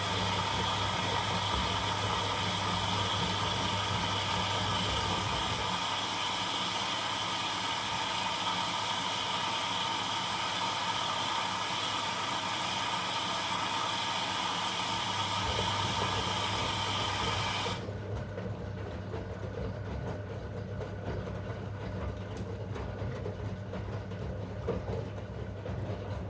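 Zanussi washing machine running on a 90 °C boil wash: a steady rushing noise over a low hum. About eighteen seconds in the rushing noise stops abruptly, leaving the hum and a quieter background.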